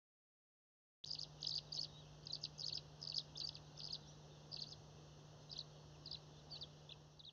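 Small bird chirping: short, high notes repeated irregularly, starting about a second in, over a steady low hum.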